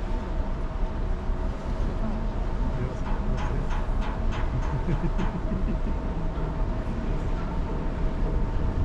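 Cruise ship running underway, heard from its deck: a steady low rumble with a constant hum, and a few short ticks about halfway through.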